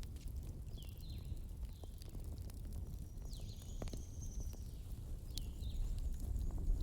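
Wood fire burning with a low steady rumble and scattered sharp crackles and pops. Short high whistling notes also sound, a longer one a little past the middle.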